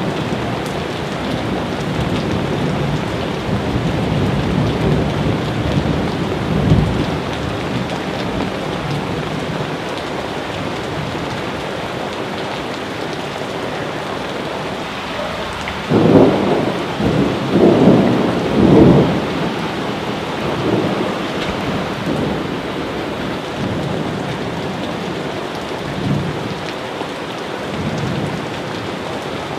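Steady rain with thunder rumbling: low rumbles through the first several seconds, then a louder clap of thunder a little past halfway that rolls on for about three seconds, and fainter rumbles near the end.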